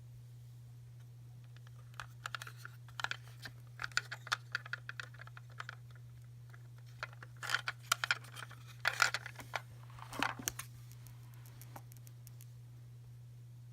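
Hands handling small plastic toys and packaging: irregular clusters of clicks and light crinkling, busiest in the middle, over a steady low electrical hum.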